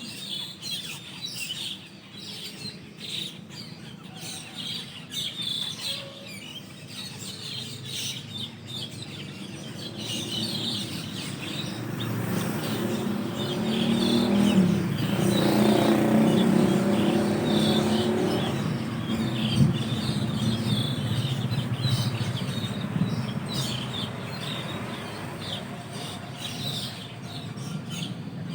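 A flock of Asian glossy starlings chattering with many short, high chirps. A motor vehicle passes through the middle, its low rumble swelling to the loudest point about halfway and then fading.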